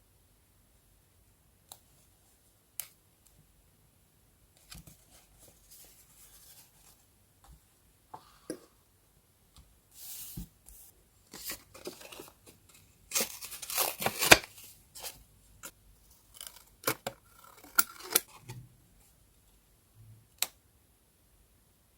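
Paper being handled for journal decorating: scattered light taps and short crisp rustles, with a denser, louder run of paper noise a little past halfway.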